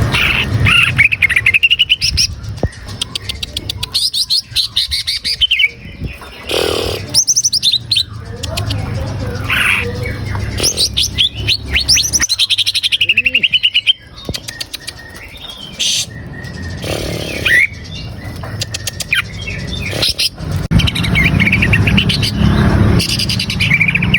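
Greater green leafbird (cucak ijo) singing: a loud, continuous stream of varied whistled phrases, rapid chirps and trills, with a steady low hum beneath.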